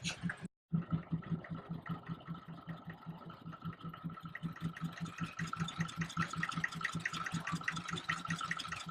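Vintage stationary engine running steadily, with an even beat of several pulses a second and a steady high whine above it. The sound cuts out briefly near the start.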